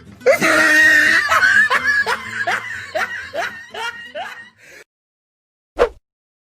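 A person's snickering laugh: a run of short bursts, each rising in pitch, that slows and fades over about four seconds. A brief click follows near the end.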